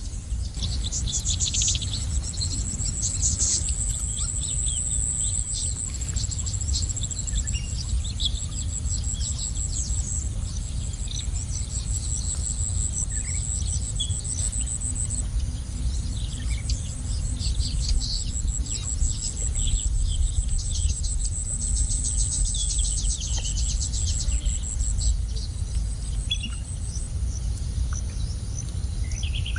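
Insects trilling in long, high-pitched, finely pulsing runs that break off and start again, with small birds chirping in short calls over them. A steady low rumble runs underneath.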